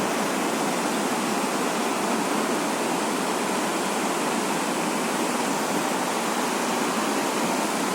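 Floodwater rushing: a steady, even roar of water with no breaks.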